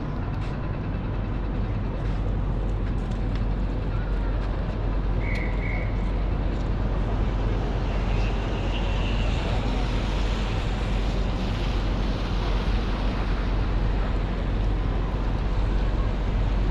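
Rainy city street ambience: a steady low traffic rumble, with a broader hiss of tyres on the wet road swelling midway as a vehicle passes.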